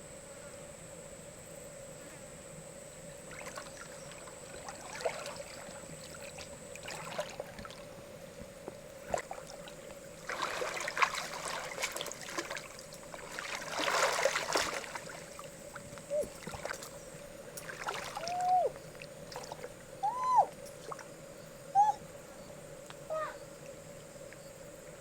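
Shallow river water splashing and trickling in short irregular bursts, heaviest about halfway through, over a steady faint hum. Near the end come a few short squeaks that rise and fall in pitch.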